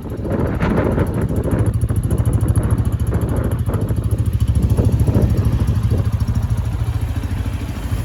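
Gilera SMX 250 motorcycle's single-cylinder engine running with a steady low rumble.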